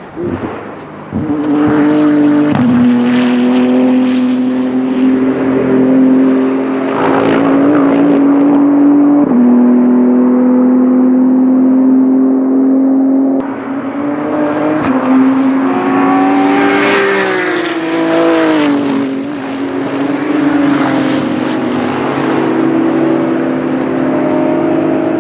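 BMW M4 GT3 race car's twin-turbo straight-six running hard at high revs. The note shifts in steps through gear changes, with a pitch dip and recovery about three-quarters of the way through.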